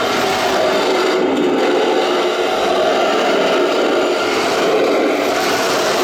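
Remote-controlled KV-1 battle tank model driving: its drive motors, gearboxes and tracks running together with the toy's engine sound, a steady, loud rattling noise with no pauses.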